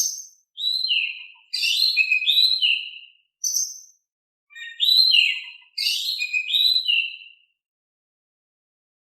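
Oriental magpie-robin (kacer) singing: a string of short whistled phrases with gliding notes, separated by brief gaps, then a pause near the end.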